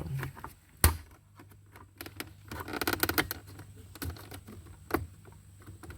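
A plastic interior trim panel being pried at with a flat tool: scattered sharp clicks and scraping of tool on plastic, with a loud click about a second in and a burst of scraping around the middle.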